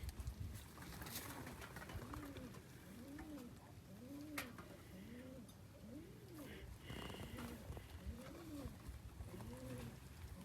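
Domestic pigeons cooing: a steady run of low, rising-and-falling coos, one to two a second, with a single sharp click a little after four seconds.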